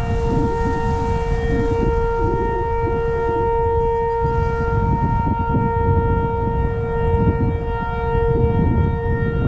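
Outdoor civil-defense warning siren sounding a steady, unwavering tone, with a fainter second siren tone alongside and a heavy low rumble underneath.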